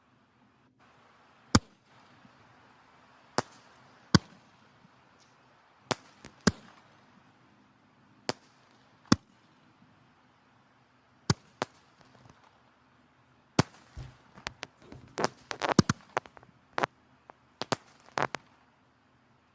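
Firewood burning in a fireplace, crackling with sharp, separate pops every second or so, then a quick flurry of pops about three-quarters of the way in.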